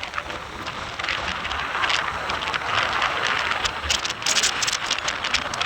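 Rushing road-traffic noise heard on the move, swelling about a second in, with a dense run of sharp crackles in the second half.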